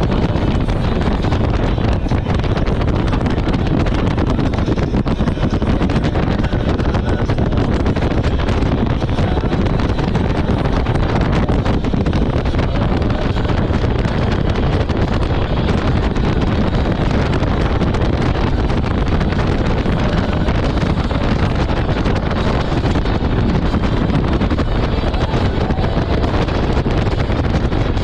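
Steady wind buffeting the microphone over a jet ski's running engine, at an even, unbroken level.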